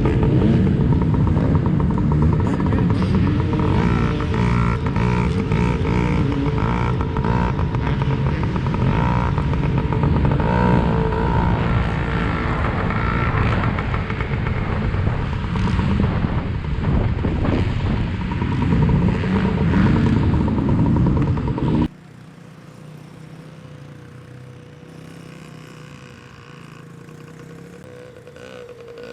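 Small two-stroke engine of a Yamaha PW50 kids' minibike running and revving as it is ridden, with clattering. About 22 seconds in it cuts off abruptly to a much fainter, steady engine hum.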